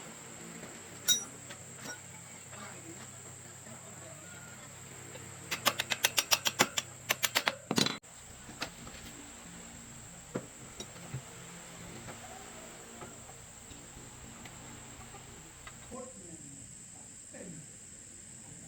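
Steady high insect trill, with a fast run of about a dozen sharp clicks, about six a second, ending in a heavier knock about halfway through, and a few scattered taps later.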